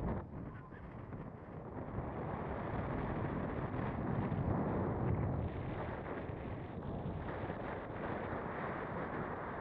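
Gusty wind buffeting the microphone: a rumbling noise that swells and eases, with no clear engine or motor tone.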